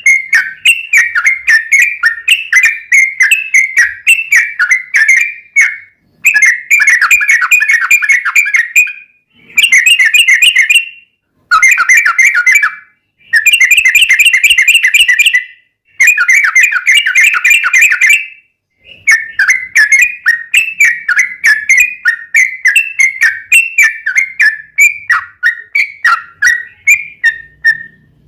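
Yellow-vented bulbul (trucukan) singing a long, rapid chattering song in bursts of a few seconds with short breaks between them. In the last third the song turns into quicker, more separate notes.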